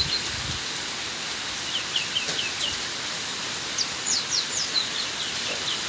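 A small bird calling in two runs of quick, high, downward-sliding chirps, the first about two seconds in and the second near the end, over a steady hiss of rain.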